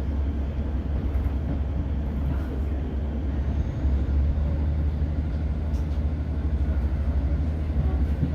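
Steady low drone of a Class 150 diesel multiple unit's underfloor Cummins diesel engine, heard inside the carriage together with the train's running noise.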